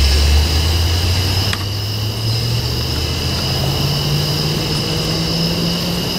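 Cuyahoga Valley Scenic Railroad diesel train rolling by. Its low engine drone is loudest at the start and rises steadily in pitch.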